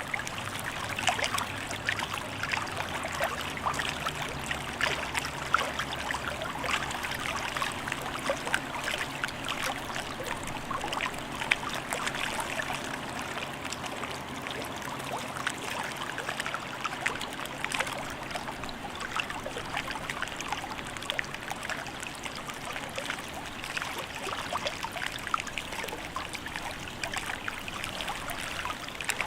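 Hudson River water lapping and splashing, with many small quick splashes. A faint low hum lies underneath and fades out about halfway.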